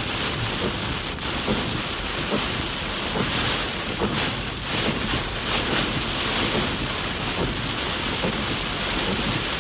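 Heavy rain beating steadily on a car's windshield and roof, heard from inside the moving car.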